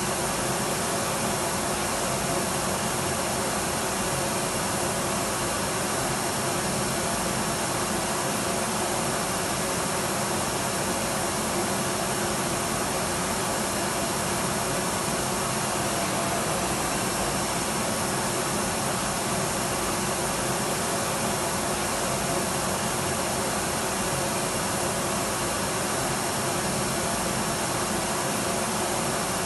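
Electric vacuum cleaner running steadily, a continuous even rushing hiss with faint steady tones in it and no change in speed.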